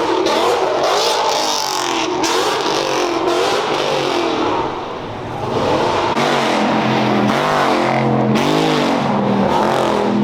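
Car engines revving hard, their pitch rising and falling again and again. About halfway in, a deeper engine takes over and blips its throttle several times.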